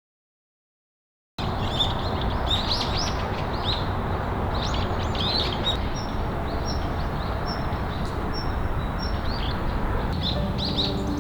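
Silence for about a second and a half, then many small birds chirping over a steady rushing background noise. Soft music comes in near the end.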